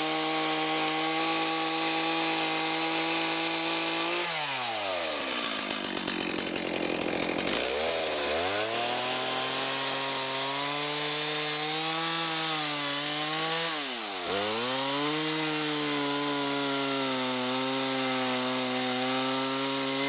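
Gas chainsaw sawing joinery into a large timber sill plate: running at high revs, dropping to idle about four seconds in, revving back up a few seconds later and holding high with a short dip partway through, then dropping again at the end.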